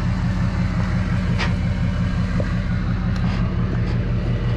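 A vehicle engine idling steadily, a low pulsing rumble, with a couple of faint clicks over it.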